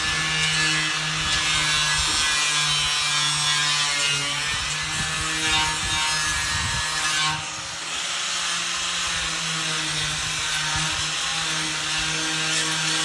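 Concrete pump running: a steady low hum under a harsh rasping noise, with a brief drop in level about seven and a half seconds in.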